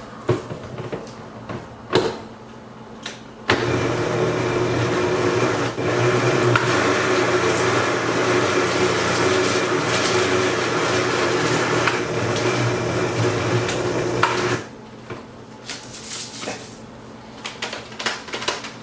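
Electric blender motor running for about eleven seconds, chopping raw chicken breast into small pieces. A few clicks come before it starts, and it cuts off sharply.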